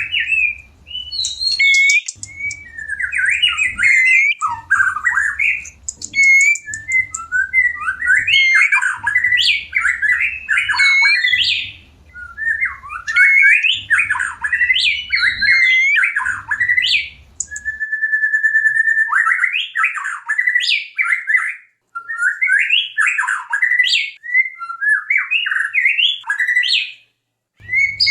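White-rumped shama singing in breeding condition: rapid, varied whistled phrases with sweeping notes, one long held whistle about two-thirds of the way through, and short breaks between phrases.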